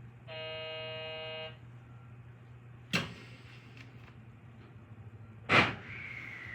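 Running sounds of a JR Central 313 series electric train heard from behind the cab: a low hum throughout, a short buzzer tone of about a second near the start, two sharp knocks later on, the second louder, and a whine falling in pitch near the end.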